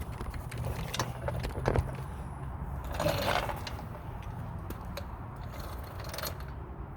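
Irregular metallic clicks and clatter of mechanic's hand tools being handled, with a louder scrape about three seconds in.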